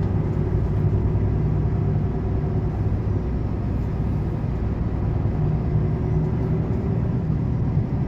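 Volvo truck under way, heard from inside the cab: a steady low engine drone with road and tyre rumble.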